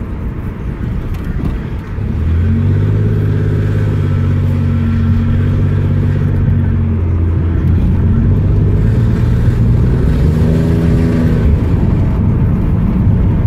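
1994 Camaro's engine and exhaust heard from inside the cabin, accelerating hard from about two seconds in with a deep drone. The pitch climbs again after about ten seconds.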